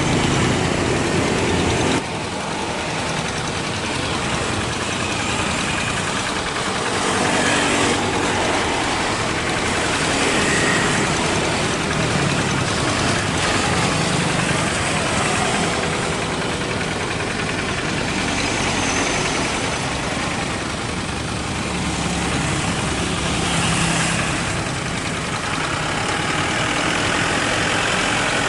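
Steady engine noise, loud and continuous, with a sudden drop in level about two seconds in.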